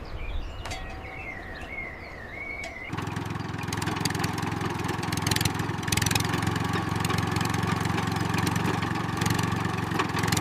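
An engine starts about three seconds in and then runs steadily with a low, even drone, with a faint wavering high tone before it.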